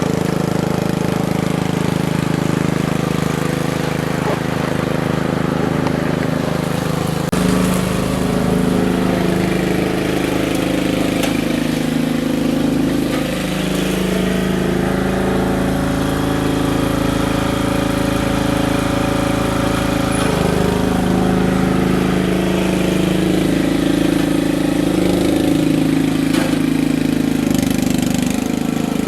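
Small gasoline engine running steadily, its pitch shifting and its low rumble getting heavier about seven seconds in, then wavering up and down.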